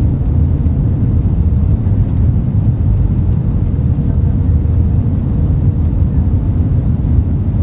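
Steady low rumble inside the cabin of an Airbus A320neo in motion, with a faint steady whine above it.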